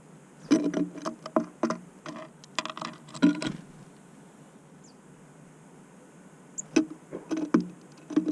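Tits pecking and scrabbling on a bird feeder right by the camera: quick irregular taps and knocks in two bursts, the first about three seconds long and the second near the end.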